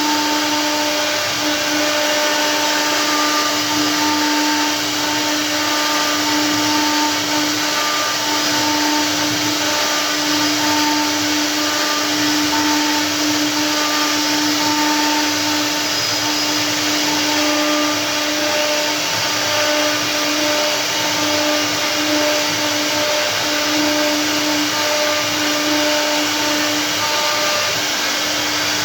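CNC router spindle running and cutting into stone: a steady motor whine made of several tones, some fading in and out, over a constant grinding hiss.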